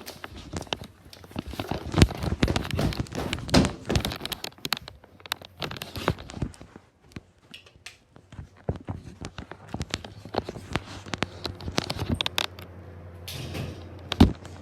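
Exhaust fan running with a steady low hum, under many irregular clicks, knocks and rattles that are loudest a couple of seconds in and again near the end.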